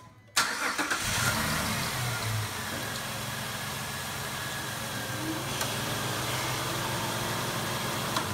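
2005 Jeep Liberty's 3.7-litre V6 starting about half a second in and settling into a steady idle, running on freshly installed spark plugs.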